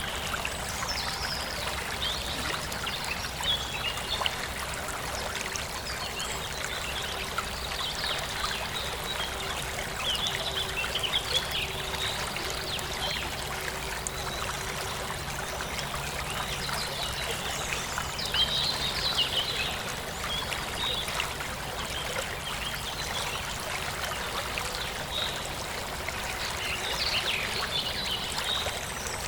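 Forest stream trickling and splashing steadily, with small birds chirping now and then over the water.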